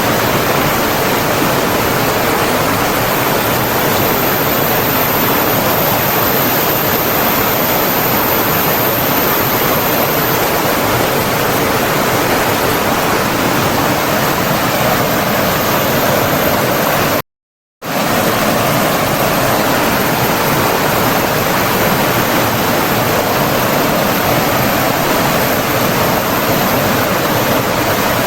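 Steady, dense rushing of flowing water, like a stream or waterfall. It cuts out completely for about half a second about two-thirds of the way through, then resumes.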